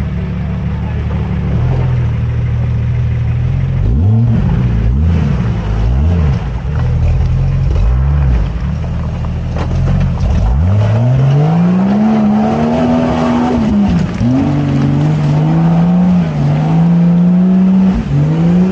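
Off-road 4x4 engine revving: about five short throttle blips, then the revs climb about ten seconds in and stay high, with one brief dip, as the vehicle works under load.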